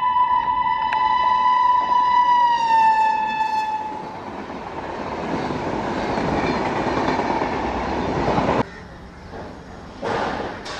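WAP-4 electric locomotive's horn sounding one long note that drops in pitch as the locomotive passes, followed by the rumble of the LHB coaches running by at speed, which cuts off suddenly about eight and a half seconds in.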